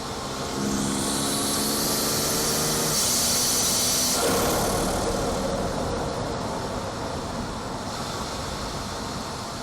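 BMW B58 turbocharged inline-six heard through its front-mount intake under load, with a loud rising intake and turbo hiss over the engine note. About four seconds in the hiss falls away with a descending whoosh, and the engine settles back to a quieter, steady cruise.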